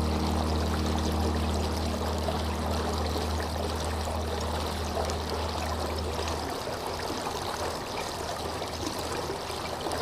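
Steady flowing water, a continuous stream-like trickle. A low held note of soft music sounds under it and fades out about six and a half seconds in.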